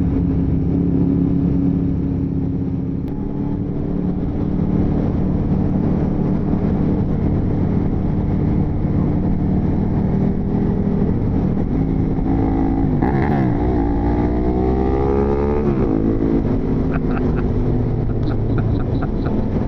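Motorcycle engine running while riding, steady at first. About two-thirds of the way through, the revs rise and fall through a few swings as the bike accelerates and changes gear.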